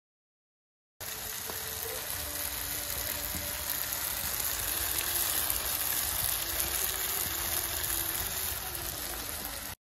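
Rain falling steadily, an even hiss that starts abruptly about a second in and cuts off abruptly near the end.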